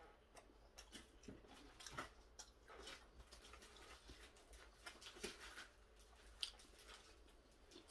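Near silence with faint chewing and a scatter of soft clicks and taps from handling a foam takeout container and its rubber band.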